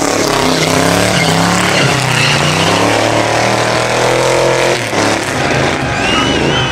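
V8 muscle car engine revving hard under a burnout, its pitch climbing and holding, then dropping off abruptly about five seconds in. A high, wavering squeal comes in near the end.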